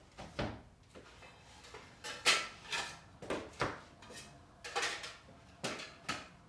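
Household objects being handled and set down: a string of short knocks, clatters and scrapes, the loudest about two seconds in.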